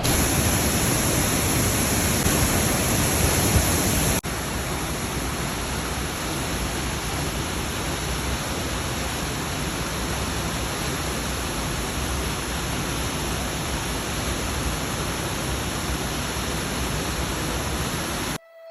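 Waterfall's steady rush of falling water, loud and unbroken apart from a sudden break about four seconds in, where the shot cuts to another stretch of the same rush.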